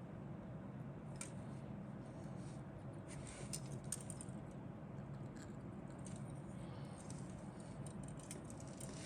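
Faint handling noise: scattered light clicks and rattles, likely from the plastic kit parts and packaging being handled, over a steady low hum.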